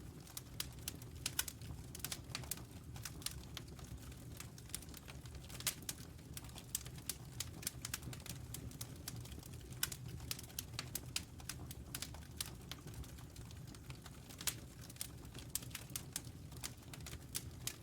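Wood fire crackling: irregular sharp pops and snaps, several a second and some louder than others, over a steady low rumble.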